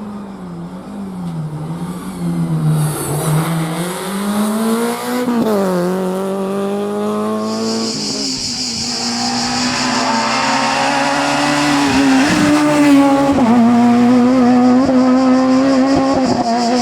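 Rally car engine revving hard, its pitch climbing and dropping with the gear changes, growing louder as the car approaches. Tyres squeal from about halfway through.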